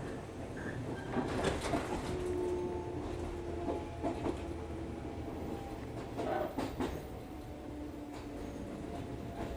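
Shinano Railway local electric train heard from inside the carriage while running: a steady low rumble from the wheels and track with faint steady tones over it. Two clusters of clacks come about a second and a half in and again about six and a half seconds in.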